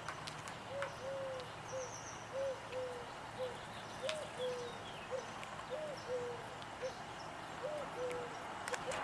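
A bird giving a string of short, low hooting notes, about fifteen over nine seconds at an uneven pace, with a brief high twittering trill from a small songbird about two seconds in.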